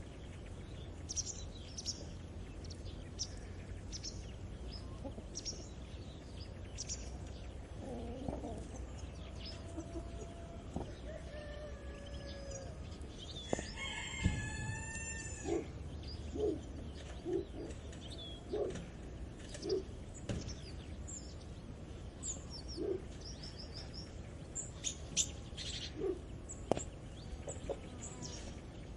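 Farmyard morning sounds: a rooster crows once about halfway through, and hens cluck in short notes about once a second through the second half. Small birds chirp throughout over a low background rumble.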